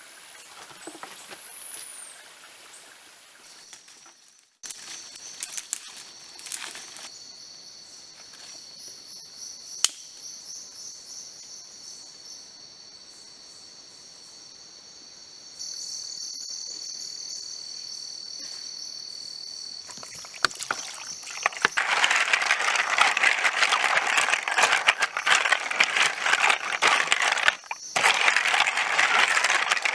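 Forest insects shrilling in steady high tones. About two-thirds of the way in, a much louder, dense crackling rustle takes over.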